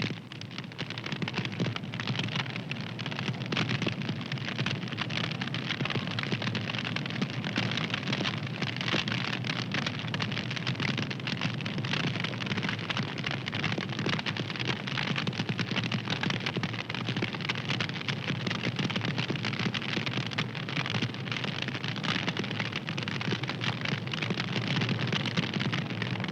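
Fire crackling: a steady, dense run of small pops and snaps over a continuous hiss.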